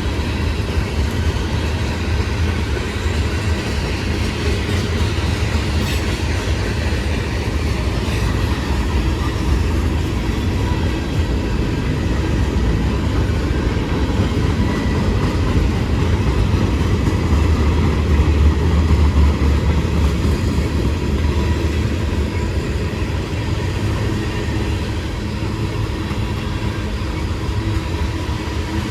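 CSX freight train rolling past: a steady, loud rumble of wheels on rail, strongest in the low end, swelling a little about two-thirds of the way through.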